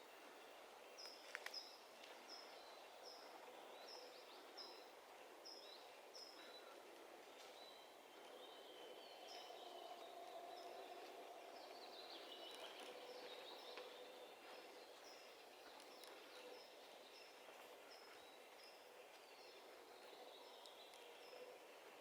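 Faint forest birdsong: one bird repeats a short high note about three times every two seconds throughout, while other birds add warbling phrases, over a soft steady background hiss.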